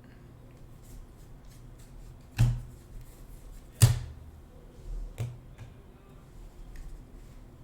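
Three sharp knocks on a tabletop, about a second and a half apart, the second the loudest, with fainter light ticks between, as trading-card packs and cards are handled and set down.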